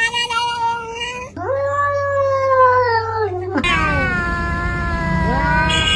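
Domestic cats meowing in about four long, drawn-out calls, one held at a steady pitch and others sliding down or up. The background changes abruptly between calls.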